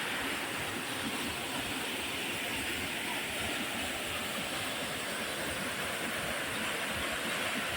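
Steady rushing of water from a small forest waterfall, an even hiss with no breaks.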